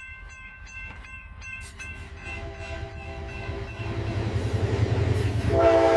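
AI-generated railroad crossing bell ringing with rapid, even strikes as a train approaches, its rumble growing louder. A train horn sounds near the end.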